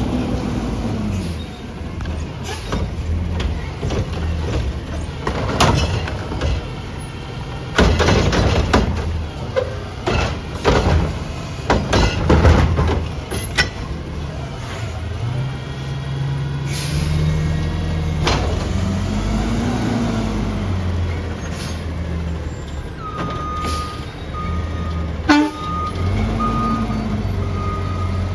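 Recycling garbage truck's engine running and revving as it works, with a run of loud clattering crashes about eight to thirteen seconds in as recyclables are dumped into the truck. Near the end a reversing beeper starts sounding in even repeats.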